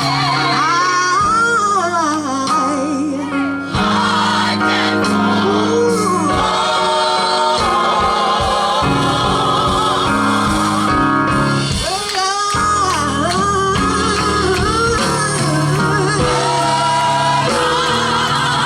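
Gospel vocal group singing with instrumental accompaniment: a lead voice slides between long held notes with vibrato over backing voices and sustained low bass notes.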